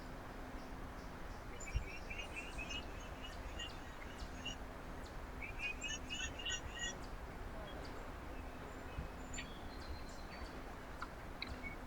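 Small songbirds at a winter feeder chirping in two short bouts of quick, repeated notes, over a steady background hiss and a faint low hum.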